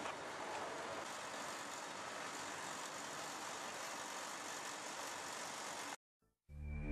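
Steady rushing outdoor noise with a vehicle rumble under it, cutting off abruptly about six seconds in. Music starts to fade in just before the end.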